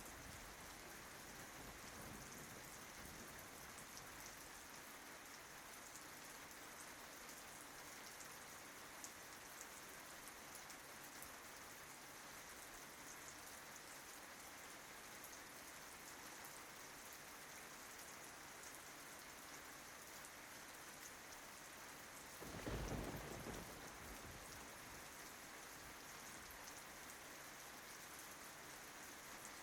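Steady rain falling on tree leaves, faint and even. A low rumble of thunder swells about two-thirds of the way through and dies away within a couple of seconds.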